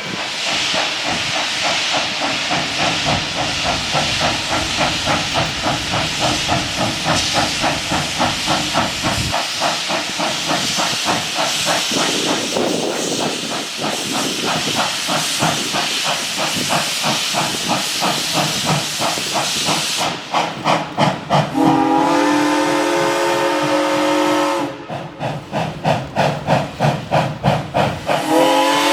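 Arcade & Attica's 2-8-0 Consolidation steam locomotive #18 working hard with a rapid, even exhaust beat. About three-quarters of the way in it sounds its whistle in one blast of several tones at once, lasting about three seconds, and starts another blast near the end.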